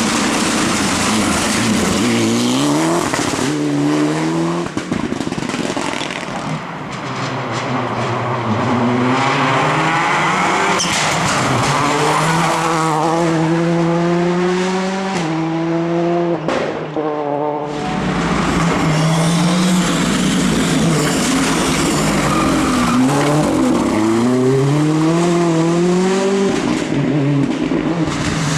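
Rally car engines at full throttle on a special stage, the pitch climbing through several gear changes again and again. There is a brief lift off the throttle about two thirds of the way through, then hard acceleration again.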